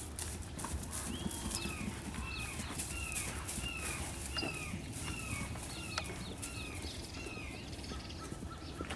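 A bird calling over and over, the same short falling note about twice a second, with a few sharp clicks among the calls.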